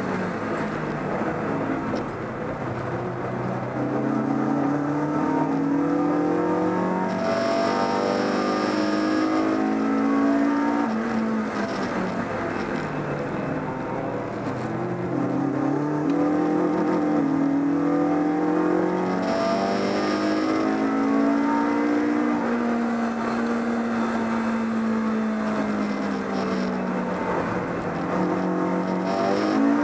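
BMW 318is race car's four-cylinder engine under race load, heard from inside the cabin. It climbs in pitch as the car accelerates, drops sharply about twelve seconds in, climbs again, holds a steady note for a while, then dips and climbs once more near the end.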